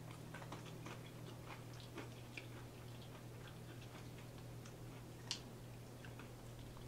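Close-up chewing of extra crispy fried chicken: scattered small crunches and mouth clicks, with one sharper click about five seconds in, over a low steady hum.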